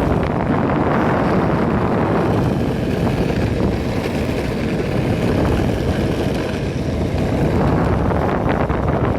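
Steady wind buffeting a phone microphone during a ride on an electric skateboard, a dense low rumble with no let-up.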